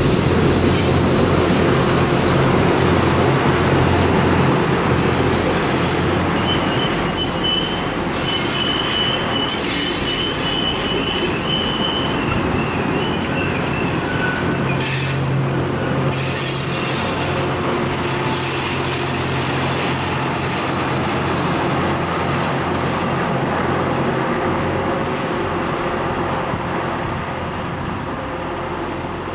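Loram rail grinder train rolling past: a steady low engine hum, a high wheel squeal lasting several seconds, and clicks as the wheels pass over the rail. It gets quieter near the end as the train moves off.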